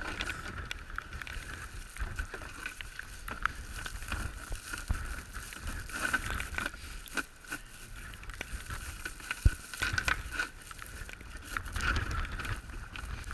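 Goose decoys and gear being handled and stuffed into a bag: irregular knocks, clicks and rustling, over a low rumble of wind on the microphone.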